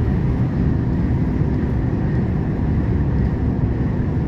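Steady low drone of a Volvo truck's diesel engine and road noise heard from the cab while cruising at an even speed.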